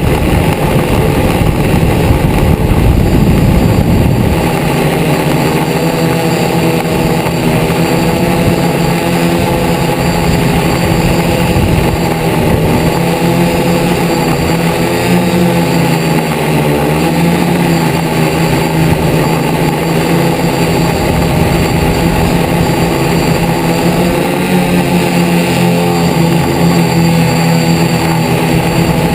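DJI Flame Wheel multirotor's electric motors and propellers buzzing, the pitch wavering up and down as the throttle changes. A louder rushing noise dominates the first four seconds or so.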